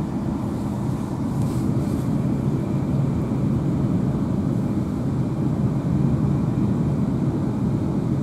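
Steady low rumble of a Class 350 electric multiple unit on the move, heard from inside the passenger carriage.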